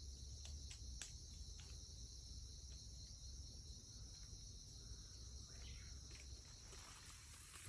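Faint, steady high-pitched chorus of insects, with a low rumble underneath and a few light clicks.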